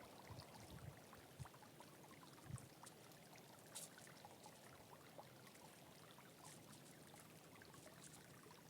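Faint stream flowing and trickling steadily, with a few light ticks scattered through it.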